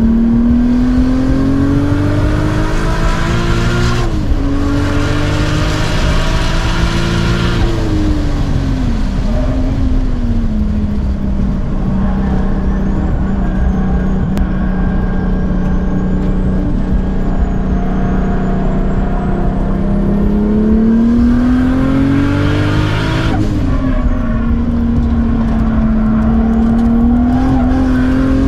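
Single-turbo Toyota Supra MkIV 2JZ straight-six driven hard on a race track. The engine note climbs under throttle and drops sharply at shifts about four, seven and a half and twenty-three seconds in. It dips around eight seconds and holds fairly steady through the middle stretch.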